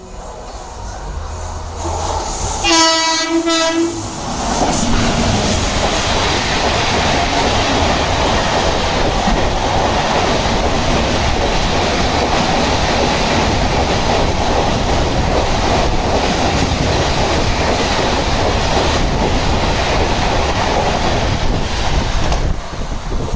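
An express train's locomotive sounds one horn blast of about a second. The train then passes at high speed through the station, a loud steady rush with rhythmic wheel clatter over the rail joints that lasts about eighteen seconds and eases near the end.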